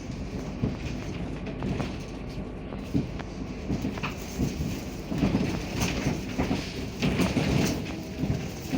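Inside a MAZ-105 articulated city bus on the move: a steady engine and road rumble with frequent knocks and rattles from the body and fittings, busier in the second half.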